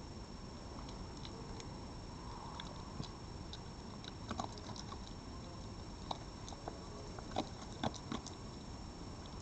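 Irregular small clicks and taps over a steady background hiss, with a few louder ones in the second half.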